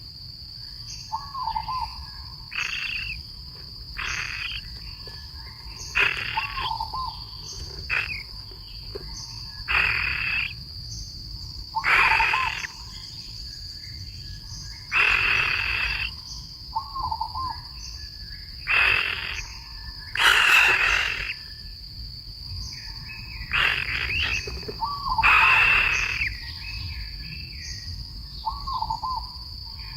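Wild animal calls over a steady high insect drone: a loud call repeats about every two seconds, and a smaller warbling call comes every five seconds or so.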